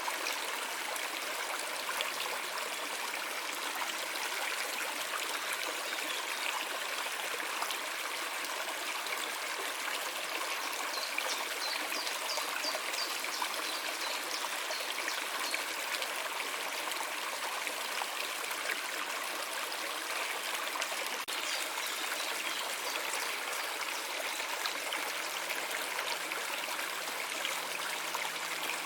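A stream of water running steadily, a continuous flowing rush without pauses.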